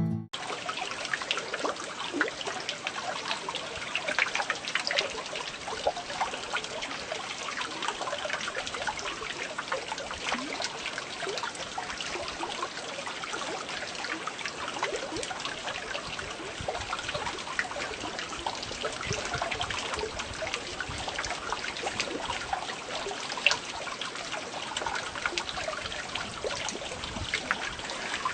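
Rain falling with water dripping: a steady wash of many small drop impacts, with no let-up.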